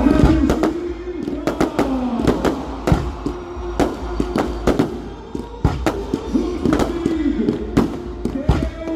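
Fireworks going off in an irregular string of sharp bangs, with music and a singing voice playing underneath.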